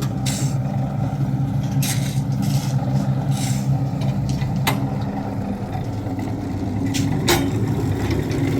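A heavy engine running steadily at a constant speed, with a few sharp knocks over it.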